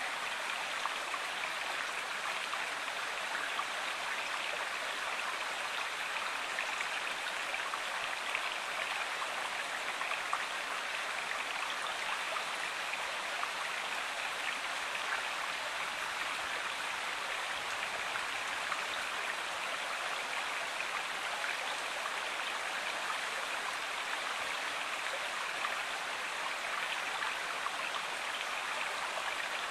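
River water flowing steadily, a constant watery rush with no pauses or changes.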